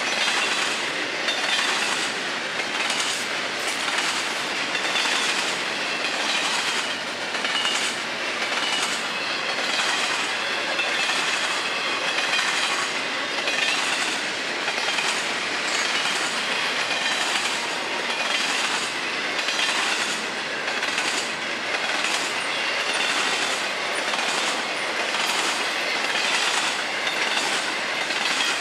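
Double-stack intermodal well cars of a Florida East Coast Railway freight train rolling past, a steady rolling roar with wheel clicks in an even rhythm.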